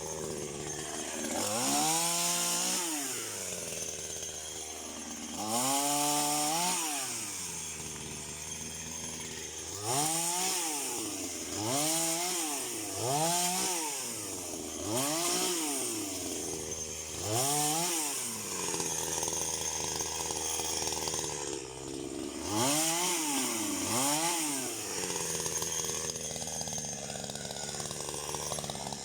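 Chainsaw revving up and dropping back about nine times, idling between each, as it cuts through tree branches.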